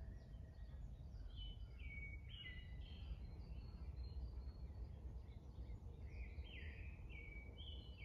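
Wild bird singing in woodland: quick phrases of short falling notes, in two runs a few seconds apart, over a steady low rumble.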